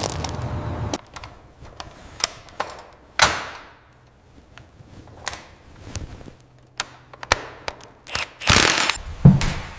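A steady rumbling noise cuts off about a second in. Scattered sharp clicks and knocks follow, with a few brief swishes, and a louder rushing burst comes near the end.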